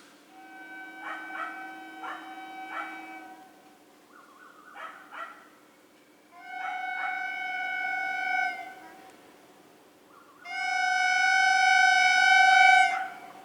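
Train air horn sounding: a few short toots, then two long steady blasts, the second one louder and about two and a half seconds long.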